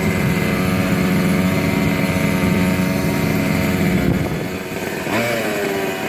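Small two-stroke gasoline engine of a 1/5-scale RC monster truck running at a steady speed. It drops back about four seconds in, then revs up again about a second later.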